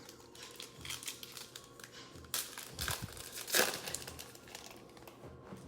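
Plastic trading-card pack wrappers being torn open and crinkled by hand, in irregular crackles with a few louder tears about halfway through.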